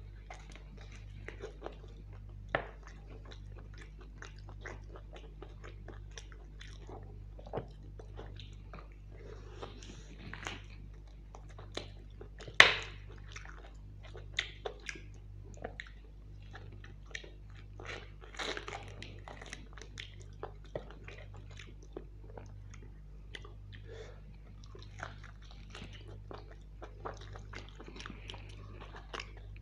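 Close-miked chewing and biting of mutton curry with luchi (puffed fried bread), eaten by hand: wet mouth clicks and smacks come every second or so, with a sharp loud click about halfway. A faint steady low hum runs underneath.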